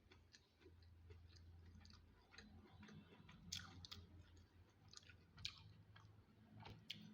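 Faint chewing and eating sounds: soft, irregular mouth clicks, with sharper clicks about three and a half, five and a half, and seven seconds in.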